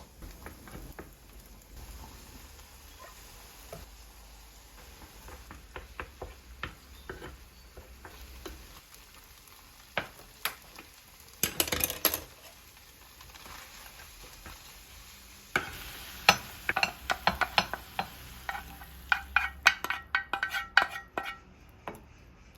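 Kitchen sounds of cooking: scattered knocks and scrapes of a utensil against a pan and dishes over a faint hiss. Near the end comes a quick run of clinks and taps, some of them ringing briefly.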